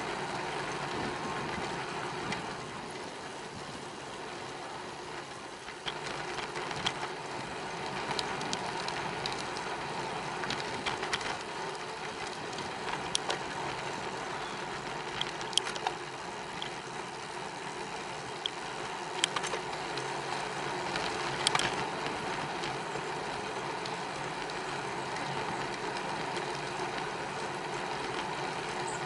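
Steady rolling noise of a bicycle ride on a paved path, with scattered sharp clicks and rattles of the bike from about six seconds in.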